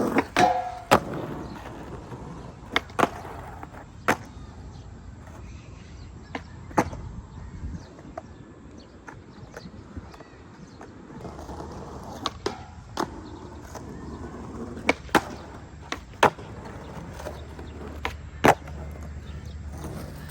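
Skateboard wheels rolling on concrete, broken by a dozen or so sharp, irregularly spaced clacks of the board, the loudest about a second in and near the end.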